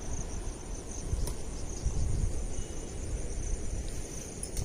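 Crickets chirring in a steady, high-pitched drone over a loud, uneven low rumble.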